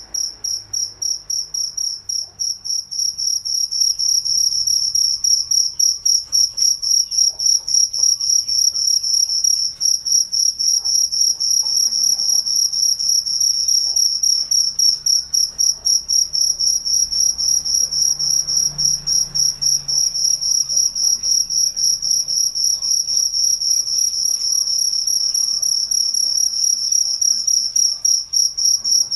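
Cricket chirping: a steady, rapid run of evenly spaced, high-pitched chirps that goes on without a break.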